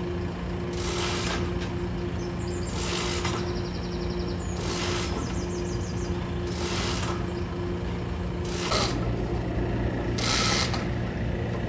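Winch hauling a roller coaster train: a steady motor hum with a short rasping sound repeating about every two seconds. The hum drops in pitch about nine seconds in.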